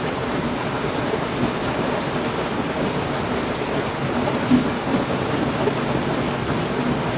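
Heavy rain falling steadily in a dense, even wash, with one brief sharper hit about four and a half seconds in.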